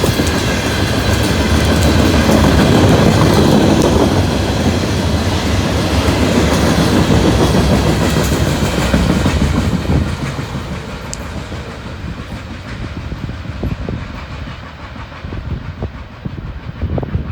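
Loaded coal train passing fast at close range, with steady wheel-on-rail noise and clickety-clack. About ten seconds in, the noise drops off sharply as the train clears, leaving a quieter rumble with scattered sharp ticks.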